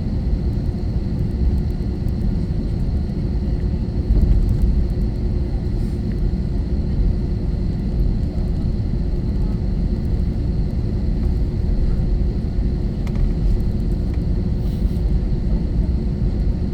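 Steady rumble and drone inside the cabin of an Airbus A321-231 with IAE V2500 turbofans running, heard from a rear window seat. A faint steady hum sits above the rumble.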